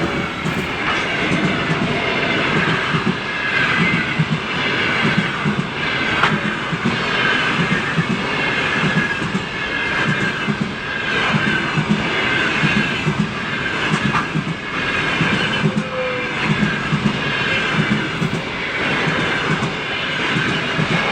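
Passenger train hauled by an EP1 electric locomotive passing close by, its wheels clattering over the rail joints in a steady, regular clickety-clack.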